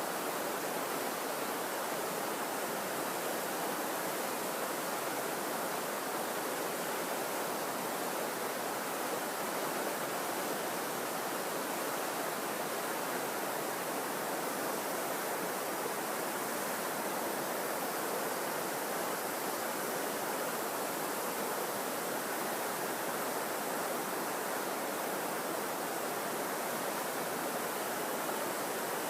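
Mountain stream water rushing: a steady, unbroken hiss.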